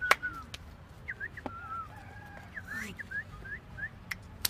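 Short bird calls: a run of quick chirping notes, busiest in the second half, with a few sharp knocks in between.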